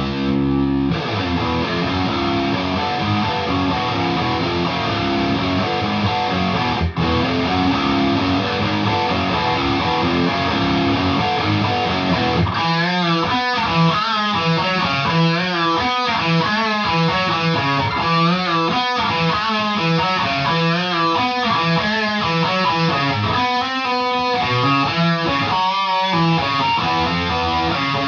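Electric guitar played through a Mesa Boogie Mark V:90 amp head and a 2x12 speaker cabinet, heard through a phone's microphone. Sustained strummed chords give way, about twelve seconds in, to a choppier, faster-moving riff.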